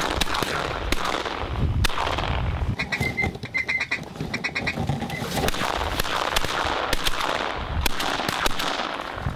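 Shotgun shots at ducks, several sharp reports a few seconds apart, over a constant rushing noise. A burst of rapid duck quacking comes about three seconds in.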